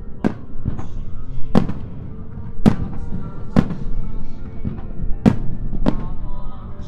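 Aerial firework shells bursting, about eight sharp bangs spaced roughly half a second to a second apart, over music.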